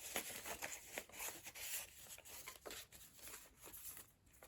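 Paper pages of a handmade junk journal being turned and handled: soft rustling with several light taps, dying down near the end.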